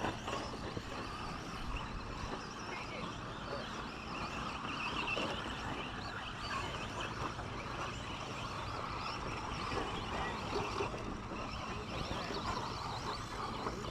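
Radio-controlled 2WD short course trucks racing, a steady running sound of several trucks' motors and tyres.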